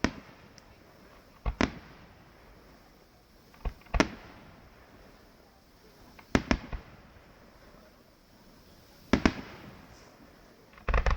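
Fireworks exploding in sharp bangs every one to three seconds, some single and some in quick clusters of two or three, each trailing off in a short echo.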